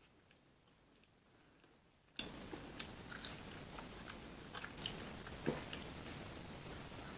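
Close-up eating: a person chewing and biting food, with scattered short wet mouth clicks and crunches. It is faint at first, then about two seconds in the background hiss and the chewing suddenly get louder.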